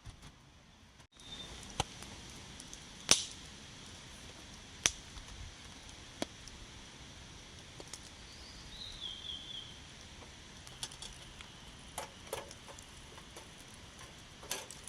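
Scattered sharp clicks and taps, a few seconds apart, over a steady faint hiss, with a brief high chirp about nine seconds in.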